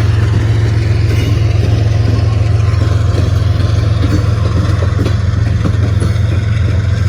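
Diesel freight locomotives running with a steady, loud low drone.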